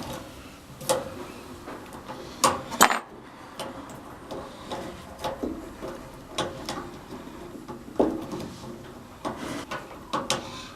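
Irregular metal clicks and clanks of tools and water-heater burner parts being handled and fitted back in place, with a few louder knocks.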